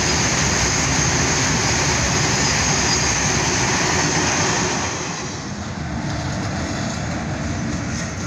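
Passenger train of coaches passing through a station at speed: a loud, steady noise of wheels on the track, easing somewhat about five seconds in.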